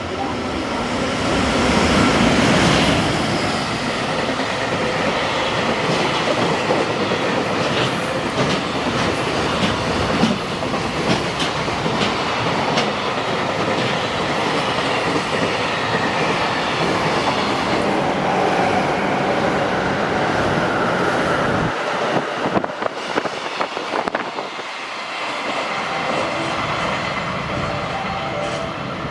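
A freight train hauled by a JR Freight EF510 electric locomotive passes at speed with a loud, continuous rail rumble that is loudest about two seconds in. The wagons then clatter rhythmically over the rail joints as the long train runs by.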